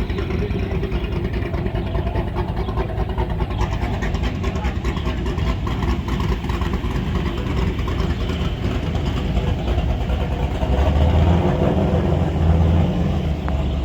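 A vehicle engine running at idle, its low rumble growing louder in pulses near the end.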